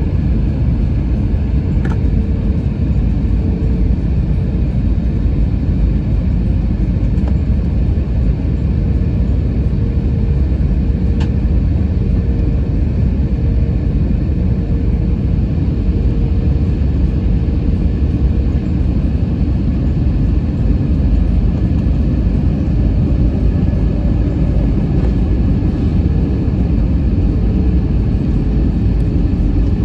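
Jet airliner cabin noise: a loud, steady, low rumble with a constant hum on top that fades out in the last few seconds.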